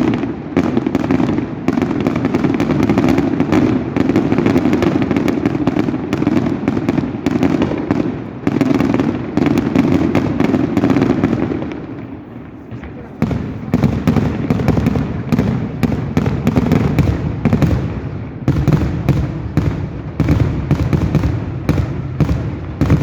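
Fireworks display going off in a dense, near-continuous barrage of bangs and crackles. It eases briefly about halfway through, then builds up again.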